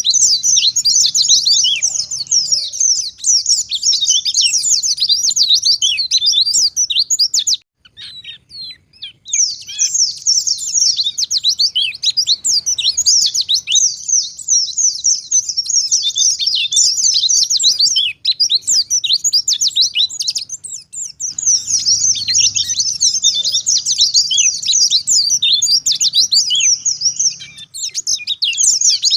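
White-eye singing a fast, unbroken twitter of high, quick notes. It pauses for about a second and a half around eight seconds in, and again briefly near the end.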